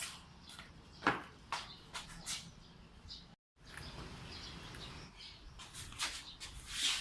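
Short clicks and knocks of small gun parts and tools being handled on a workbench, several separate taps, with a brief cut to dead silence about halfway.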